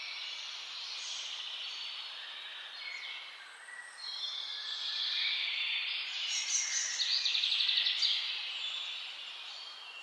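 Several wild birds calling and singing at once, a dense chorus of overlapping chirps and whistles. A rapid trill comes in about two-thirds of the way through and is the loudest sound.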